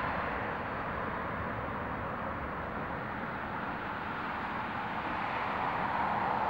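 Jet engine noise of a landing Boeing twinjet airliner: a steady rushing roar that eases slightly and then swells again near the end.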